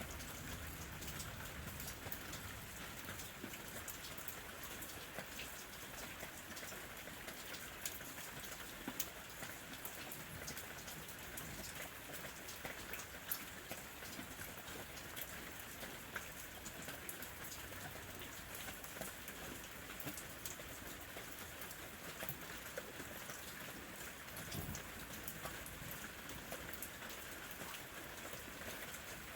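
Steady summer rain falling, an even hiss dotted with many separate drop hits.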